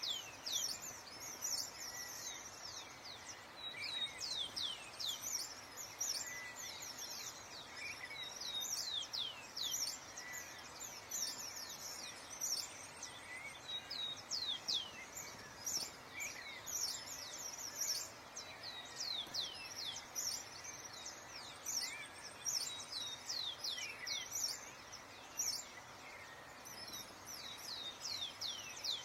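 Small birds chirping continuously, many short high calls that sweep down in pitch, overlapping one another over a steady background hiss.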